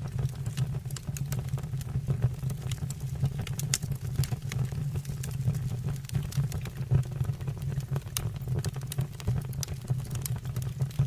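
Wood fire in a stove or fireplace crackling, with frequent irregular sharp pops over a low steady rumble.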